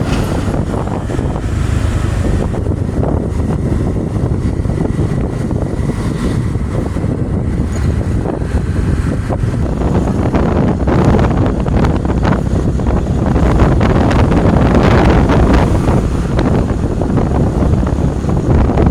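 Wind buffeting the microphone of a moving motorcycle, over engine and road noise. It grows somewhat louder in the second half.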